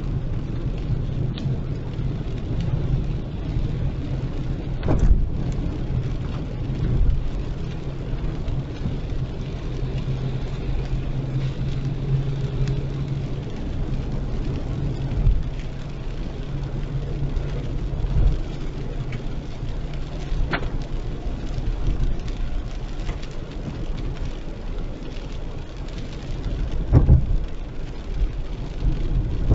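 A car driving in heavy rain: steady low engine and road noise with rain beating on the car, broken by a few dull thumps.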